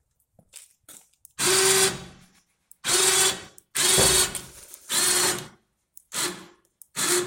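2,500 lb electric winch on a truck-mounted snow plow run in short bursts, about six pulses of motor whine each lasting about half a second, moving the plow up and down.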